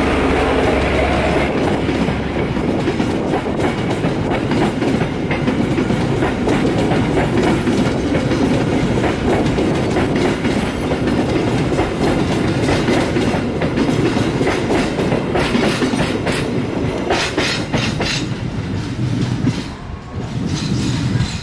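Passenger coaches of a long Indonesian train rolling past close by: a loud, steady rumble of steel wheels with clickety-clack over the rail joints. Near the end a few sharper clacks come as the last coaches pass, then the noise falls away.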